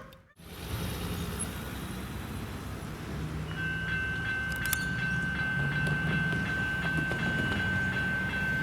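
Level crossing's General Signals electronic bells start ringing about three and a half seconds in, a steady high-pitched ringing as the crossing activates, with a brief clatter of clicks soon after. A low rumble runs underneath.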